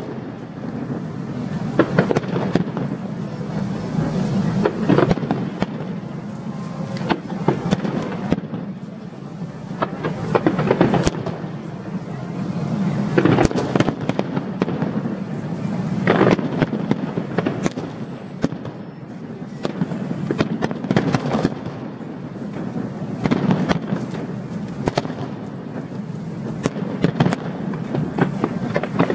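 Fireworks display: a continuous run of aerial shell bursts and crackling, with sharp bangs coming irregularly every second or two over a steady rumble.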